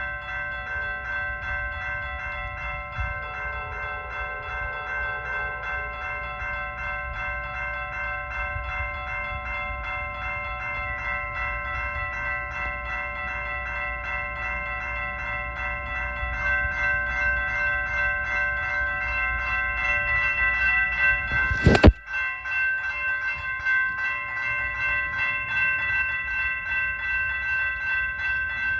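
High-pitched Siemens electronic grade-crossing bells ringing in a fast steady pattern, over the low rumble of an approaching train that grows louder about two-thirds of the way through. A single sharp knock comes about 22 seconds in.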